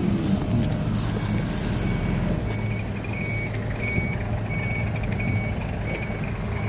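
A truck's backup alarm beeping, short even beeps about twice a second, over the steady rumble of the truck's running engine.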